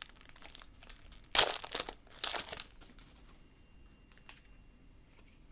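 Plastic wrapper of a Topps Opening Day baseball card pack crinkling and tearing as it is opened, in several rustling bursts, the loudest about a second and a half in. The rustling stops about three seconds in.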